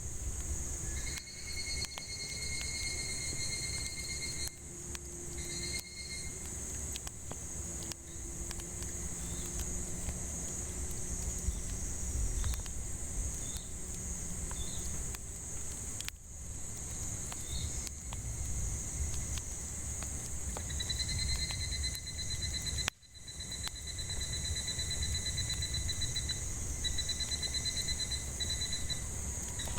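Cicadas droning steadily in a high, even whine, with a pulsed trilling call that rings out twice, near the start and again in the last third. Under it a wood campfire crackles with scattered small pops.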